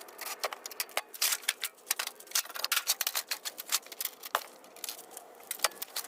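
Rapid, irregular sharp clicks and snips of hand work on scrap metal, several strokes a second with short pauses.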